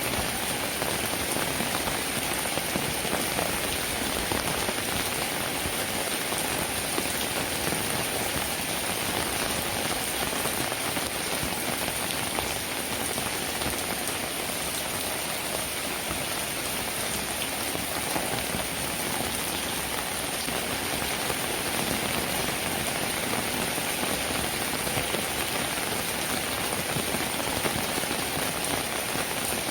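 Steady rain falling on a cabin roof, a dense, even downpour that neither builds nor eases.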